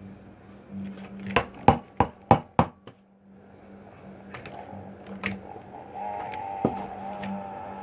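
Several sharp clicks about a second and a half in, then a cheap LED par light starts a wavering, whining noise that builds and holds. It sounds like grinding.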